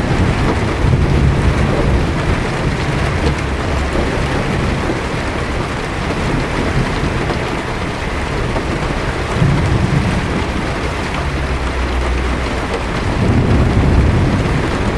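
Heavy rain beating steadily on a car's windshield and body, heard from inside, with low thunder rumbling underneath. The rumbles swell a few times, the strongest near the end.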